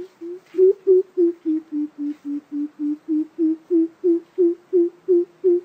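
Coucal (bìm bịp) call: a long series of deep, low hoots at about three a second, sagging slightly in pitch midway and then rising again. This is the call used as a lure to draw coucals in.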